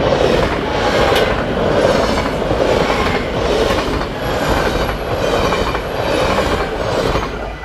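Yellow-and-blue NS double-deck passenger train passing at speed: a loud rushing rumble with wheels clattering over the rails, swelling about once a second as each bogie goes by. It starts suddenly as the train arrives and drops away near the end as the last car clears.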